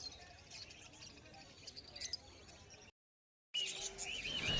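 Caged pet birds chirping, faint and scattered at first; the sound drops out completely for a moment about three seconds in, then louder warbling chirps follow.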